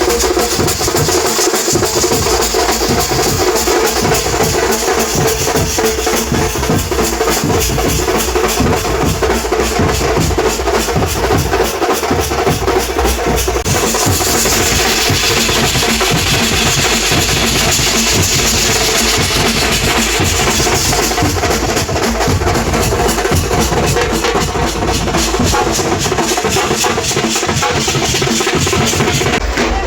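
Loud, continuous fast drumming by a percussion ensemble, with rapid even strokes and a brighter, cymbal-heavy stretch in the middle.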